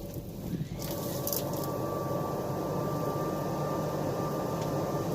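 Leaf blower running, forcing air through a dryer vent duct to blow out lint. Under a second in, its steady whine steps up higher and louder, then holds.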